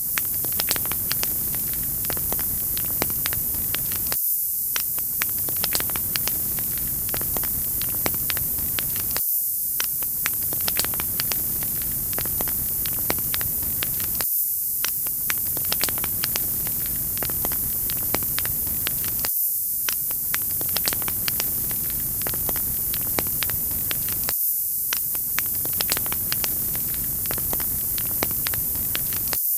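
Wood fire crackling, with many small sharp pops over a steady hiss. The same short stretch of sound repeats about every five seconds.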